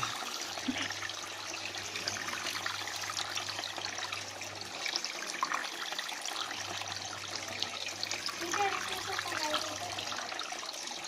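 Water splashing and trickling in a constant crackling patter. A low steady hum runs under it and stops for about two seconds near the middle.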